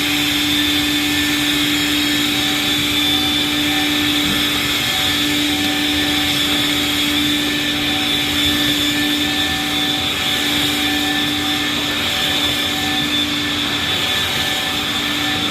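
Floor-cleaning vacuum motor running steadily, with a constant hum and a high whine over a rushing suction noise.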